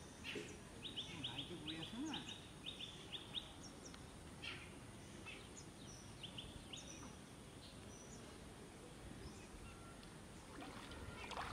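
Small birds chirping, with quick runs of short high chirps in the first few seconds and scattered single chirps after, over a faint outdoor background.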